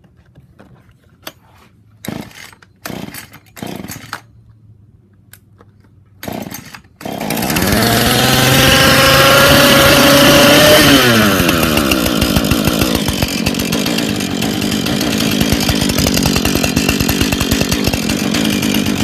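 Husqvarna 440 two-stroke chainsaw being pull-started: several short pulls of the starter cord, then the engine catches about seven seconds in and runs fast. About eleven seconds in the revs fall away and it settles into steady, lower running.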